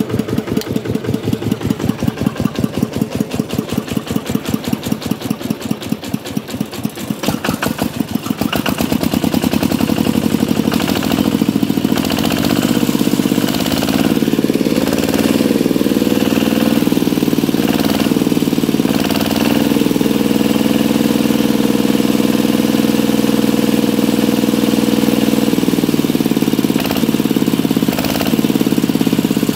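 Kubota RK125 single-cylinder diesel engine running slowly with distinct, separate firing beats, then speeding up about a third of the way in and running on steadily at a higher speed.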